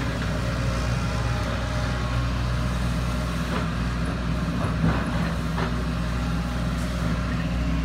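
Heavy diesel engine running steadily at a constant speed, with a few faint knocks about halfway through.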